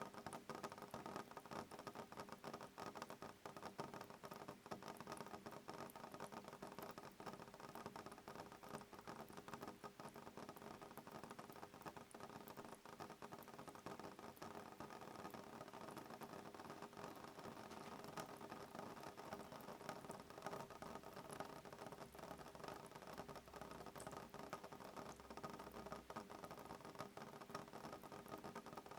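Soft rain pattering on a window pane: a steady, quiet stream of fine drop ticks.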